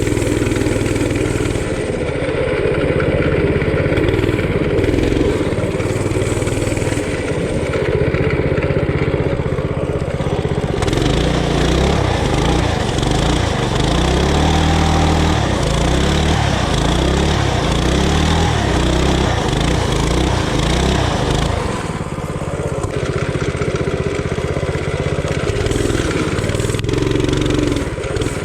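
Coleman RT200 mini bike's single-cylinder four-stroke engine running under throttle while riding, its pitch rising and falling with the throttle. For about ten seconds in the middle it runs harder with a brighter note.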